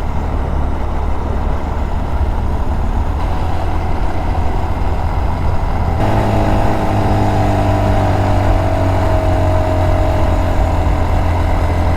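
Small motorcycle's engine running as it is ridden, over a steady rush of wind and road noise. About halfway through, the engine note settles into a steady hum that slowly sinks a little in pitch.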